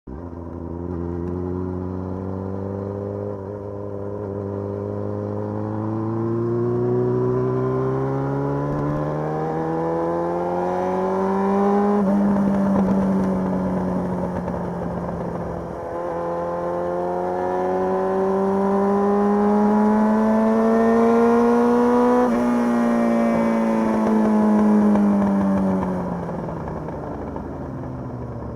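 Motorcycle engine heard from the rider's position, its pitch climbing slowly for about twelve seconds as the bike gathers speed, holding, dipping briefly, climbing again, then falling away over the last few seconds as the bike slows.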